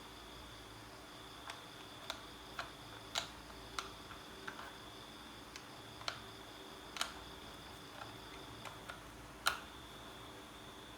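Irregular light clicks and taps of small parts being handled, about fifteen over several seconds with the sharpest near the end, over a faint steady hiss and a thin high tone.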